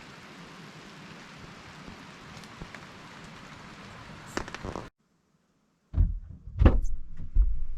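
Steady hiss of rain falling for the first five seconds, with a few faint ticks of drops. It cuts off abruptly, and after a second of silence there are loud, low, irregular thumps and knocks.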